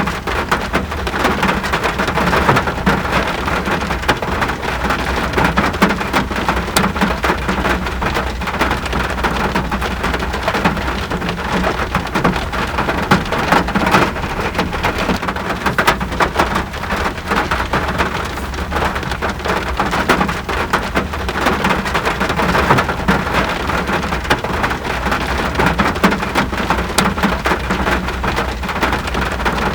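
Steady rain falling, a dense patter of drops hitting surfaces, with a constant low rumble underneath.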